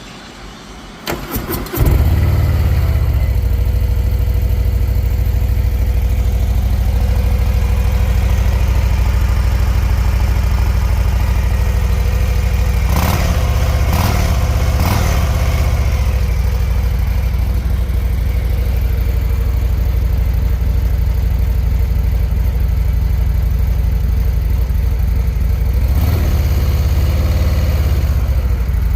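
Harley-Davidson Breakout's Milwaukee-Eight V-twin on its stock exhaust, turned over and firing about two seconds in, then idling steadily with a deep, even exhaust note.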